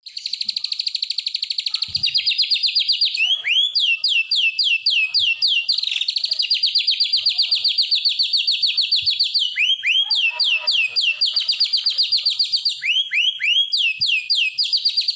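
White-rumped shama (murai batu) singing, firing off long, very fast canary-style rolls broken by short runs of sharp down-slurred whistles.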